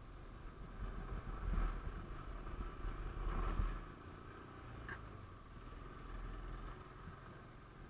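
Motorcycle running on the road, a steady engine drone under low rumbling noise that swells louder twice in the first half.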